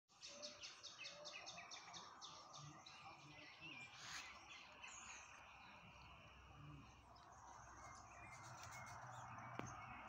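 Faint birdsong in the open air: a quick run of repeated chirps, about six a second, for the first two seconds or so, then scattered short whistled notes over a steady faint hiss.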